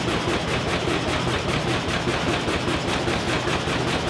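Fairbanks Morse Model YH 25 horsepower two-stroke diesel engine running steadily under line-shaft load, with a rapid, even beat.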